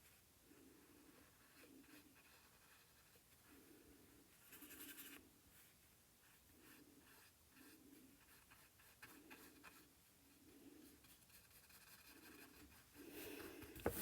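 Faint strokes of a paintbrush on canvas applying acrylic paint, soft and irregular, about once a second, with a louder scrape at the very end.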